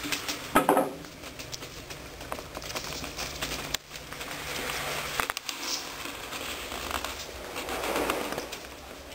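Border Collie puppies moving about, with light pattering, scratching and rustling. A brief yelp comes about half a second in, and a faint whine near the end.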